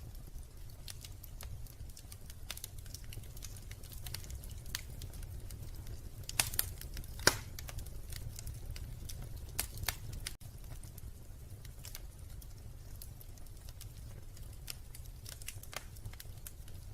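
Wood fire in a fireplace crackling: scattered sharp pops and snaps over a steady low rumble, with two louder pops about halfway through.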